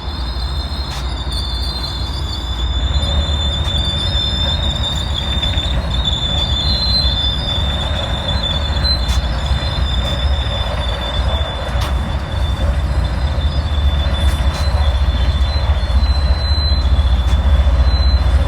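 MBTA train wheels squealing on the rails: a steady high-pitched squeal over a low rumble of the moving train, with a few faint clicks. It grows slightly louder toward the end.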